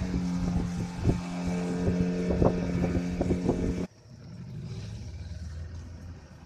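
Boat motor running steadily, with many short knocks over it. About four seconds in it cuts suddenly to a quieter, lower engine drone.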